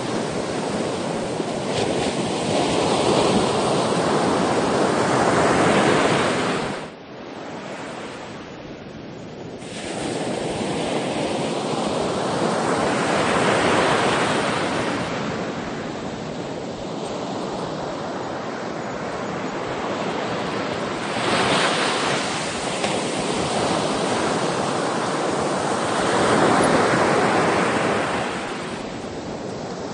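Sea surf: waves breaking and washing in slow, repeated surges that swell and fall away, with a brief lull about seven seconds in.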